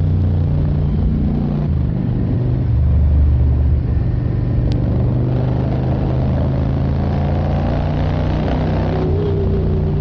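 Yamaha XVS650 Drag Star's air-cooled V-twin engine running steadily while riding. Its low rumble swells briefly about three seconds in.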